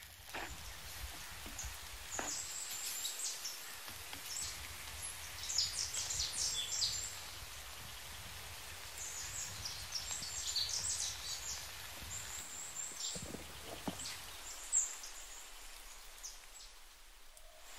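Small birds chirping on and off, with a low outdoor rumble underneath that drops away near the end.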